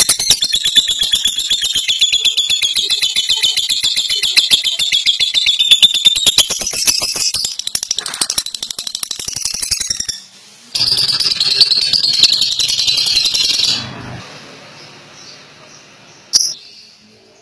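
Lovebird's long ngekek: a rapid, high-pitched rattling chatter of many sharp notes a second, kept up for about ten seconds, breaking off briefly, then a second shorter burst before it fades. A long unbroken ngekek is the song prized in fighter-class lovebirds.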